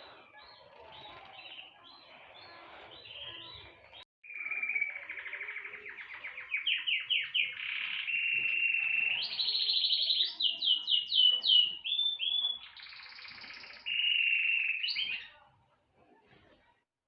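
Fainter bird twittering, then after a short break about four seconds in, a songbird sings a long, loud song of rapid trills, fast repeated notes and held whistled tones, which stops shortly before the end.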